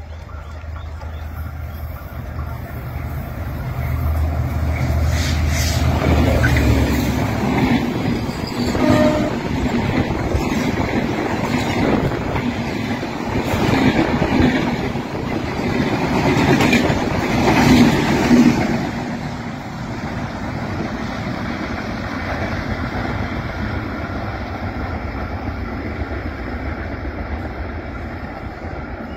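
Passenger train passing at speed alongside a station platform: a deep locomotive engine rumble builds over the first few seconds, then the coaches go by with loud, repeated clattering of wheels over the rail joints. The clatter dies away about two-thirds of the way through into a steadier, fainter rumble.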